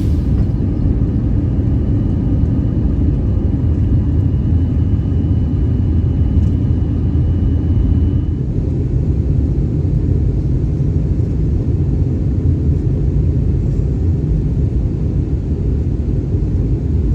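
Jet airliner engines giving a loud, steady low rumble, with a faint high whine that stops about eight seconds in.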